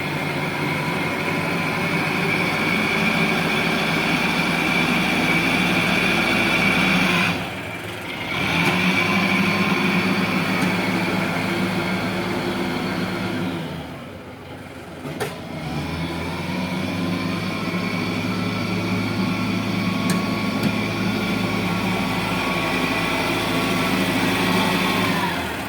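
Heavy diesel engine running under load with steady revs. The revs drop off twice, about seven seconds in and again around fourteen seconds, then pick back up, with a single knock as it recovers the second time.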